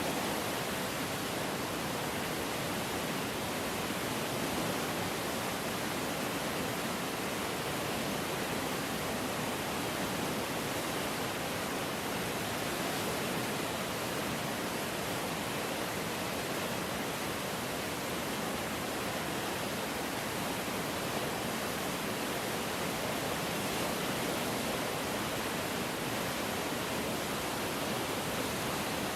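Floodwater in a swollen river rushing steadily, a constant even roar of water without breaks.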